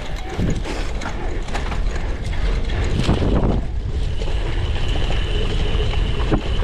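Cyclocross bike's drivetrain clicking and rattling, the freehub ratcheting, while riding over rough ground, with steady wind rumble on the microphone.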